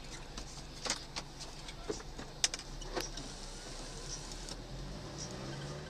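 Low steady hum of a car's engine running, heard from inside the cabin through a dashcam, with a few scattered sharp clicks and knocks. The sharpest click comes about two and a half seconds in.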